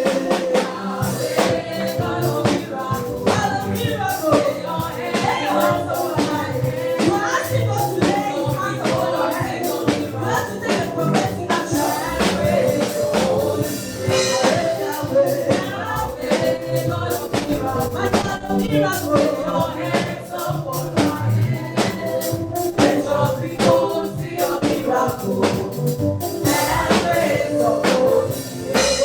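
Live gospel praise music: a choir singing over a band with drums and a steady beat.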